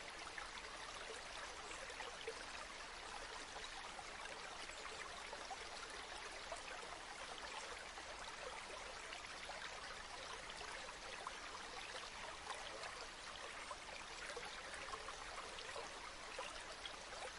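Gently flowing river water, a steady, even sound of small splashes with no breaks.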